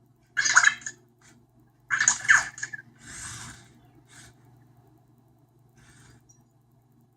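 Anki Vector robot making short electronic chirps and bleeps: two loud bursts about half a second and two seconds in, then a softer noisy sound and a faint tick.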